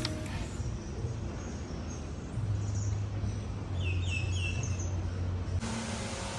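Steady background noise with a low hum, and a small bird chirping a few short high notes a little past the middle.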